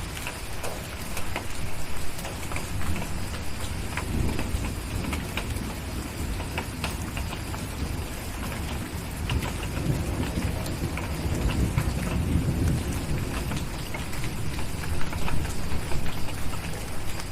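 Steady rain with a low rumble of thunder that swells twice, about four seconds in and again for a few seconds around ten seconds in. Sharp crackles from a wood fire are scattered throughout.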